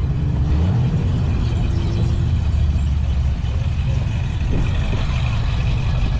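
Car engines running close by, a steady low rumble.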